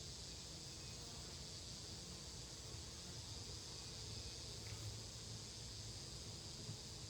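Steady outdoor insect noise, an even high hiss, over a low fluctuating rumble, with no single sound standing out.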